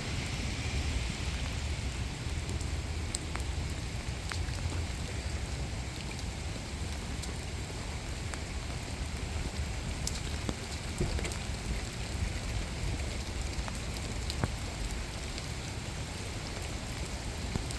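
Rain falling steadily, with scattered sharp ticks of single drops close by.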